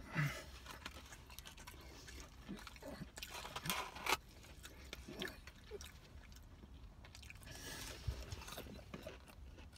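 A man eating onion rings: faint chewing and crunching, with scattered short clicks and crackles.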